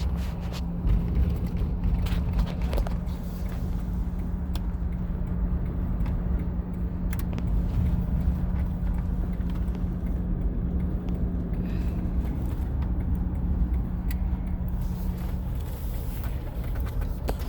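A car running, heard from inside the cabin: a steady low rumble with a steady hum that stops about fifteen seconds in, and a few faint clicks.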